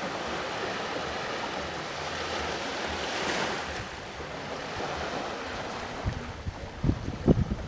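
Sea waves washing onto the shore in a steady hiss, with one wave breaking and swelling about three seconds in. From about six seconds, wind buffets the microphone in low, uneven rumbling gusts that become the loudest thing near the end.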